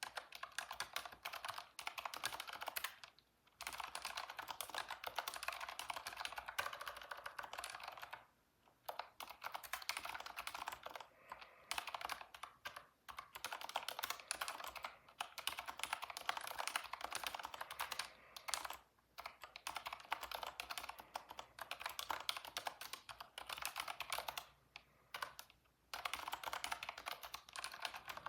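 Typing on a computer keyboard, rapid key clicks in long runs broken by short pauses of about half a second.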